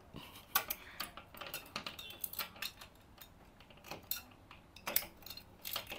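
A key working a lock: light metallic clicks and rattles of keys and lock hardware, scattered irregularly as the lock is fastened.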